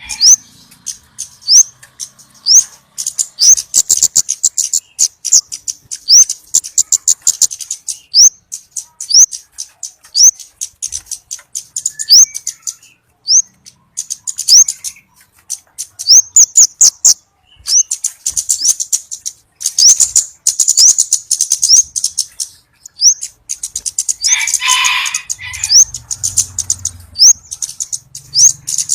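Flowerpecker calls: a rapid, uneven run of sharp high ticks mixed with short, thin, upswept 'tsit' notes, repeated throughout as a bird-trapping lure call. About 24 seconds in comes a brief, lower and louder burst of chirping.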